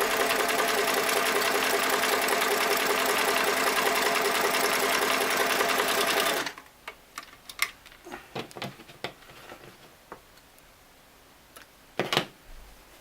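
A Singer Model 337 sewing machine runs steadily at speed, sewing a wide zigzag stitch with a fast, even stitching rhythm, then stops suddenly about halfway through. Afterwards come small clicks and fabric handling sounds, with one sharper click near the end.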